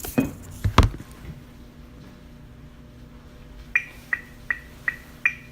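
Two sharp thumps in the first second. Later, a steady run of short, high-pitched electronic ticks begins, a little under three a second, like a metronome counting in.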